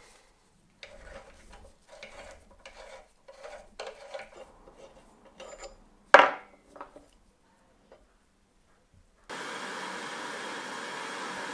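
Bench vise parts being handled: a run of short scraping and rubbing strokes, then one sharp metallic clank about six seconds in. From about nine seconds a steady, even noise starts and keeps going.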